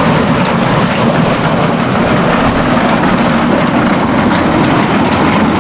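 Tractor engine running steadily while a grain cart's auger unloads wheat, a loud, unbroken machine drone.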